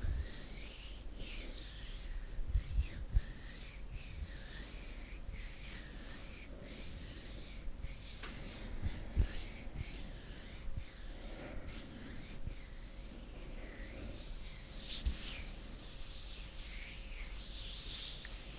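Bare hands rubbing and brushing together slowly close to a sensitive microphone, in a run of soft hissing strokes. A few low thumps come about two and a half to three seconds in.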